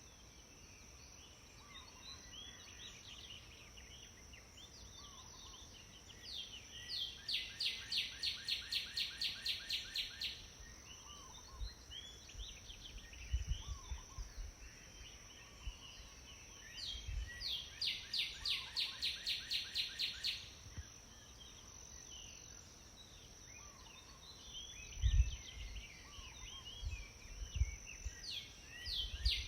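Pileated woodpecker calling: a rapid, even series of loud notes, about four a second, each run lasting three to four seconds. It comes about a quarter of the way in, again past halfway, and starts once more at the very end. Fainter bird chirps and a few low thumps are heard between the runs.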